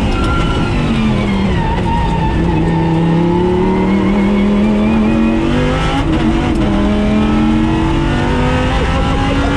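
A car engine running under way, its pitch sinking over the first few seconds, then climbing steadily, dropping sharply about six seconds in as it shifts up, and climbing again through the next gear.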